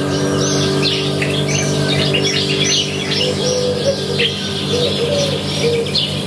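Many small birds chirping and calling in a dense, continuous chorus, with a few lower warbling calls in the second half, over a steady low hum.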